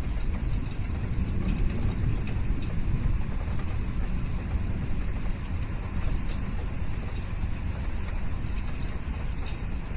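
Steady rain falling, a continuous even hiss with a heavy low rumble and faint scattered drop ticks.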